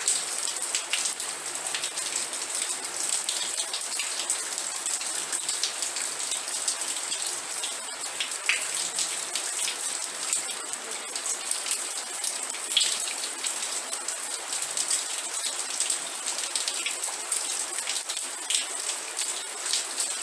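Steady rain falling, a constant high hiss with many close individual drops ticking and pattering through it.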